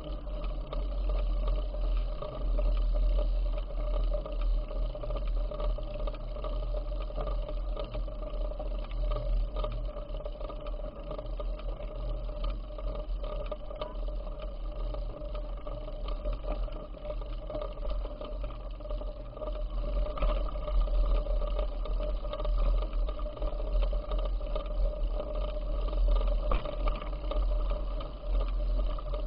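Wind buffeting the microphone of a camera carried on a moving bicycle: a low, fluctuating rumble over a steady hum.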